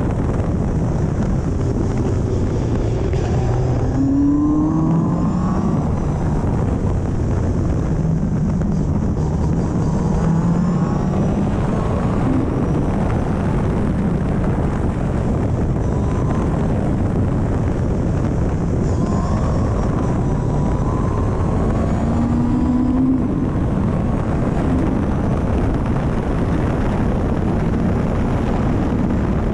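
Caterham CSR260's four-cylinder engine running hard on track, its pitch climbing several times as it revs up through the gears and dropping back between, heard from the open cockpit.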